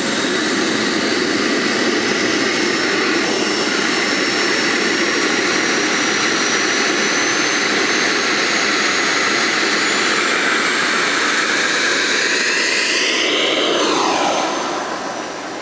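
RC model jet's turbine engine running at high power, a loud steady rushing whine. Near the end its pitch falls and the sound fades as the jet moves away.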